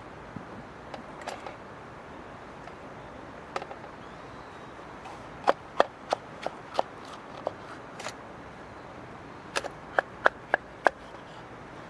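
Wood fire crackling with sharp pops over a steady low hiss: a scattered run of pops through the middle and a quicker run of about five near the end.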